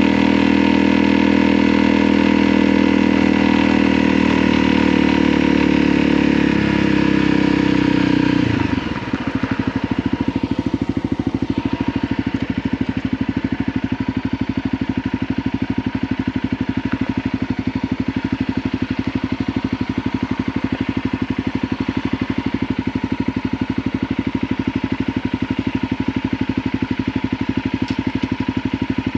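Motorcycle engine running under way, its pitch dropping sharply about eight or nine seconds in as it slows, then idling steadily.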